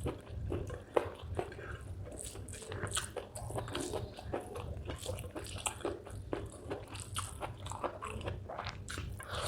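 Close-up chewing and crunching of spicy chicken gizzard with rice: irregular wet crunches and mouth clicks over a low hum.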